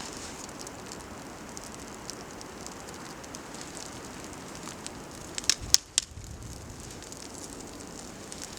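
Small campfire of birch bark and twigs crackling steadily, with a quick run of sharp, louder pops about five and a half seconds in.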